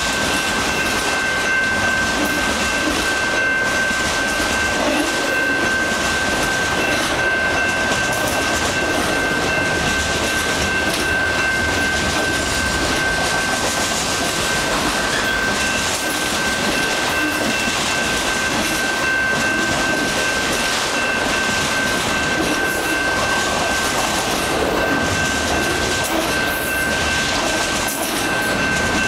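Freight train of autorack cars rolling past close by: steady rumble and clatter of wheels on rail, with a thin, steady high-pitched tone held over it throughout.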